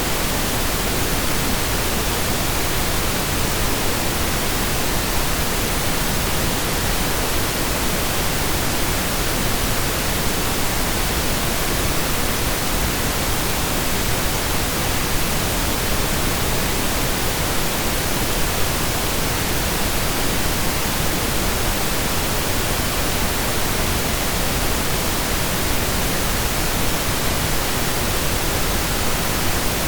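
Steady synthesized pink noise: an even hiss, like steady rain, with equal energy per octave, unchanging throughout.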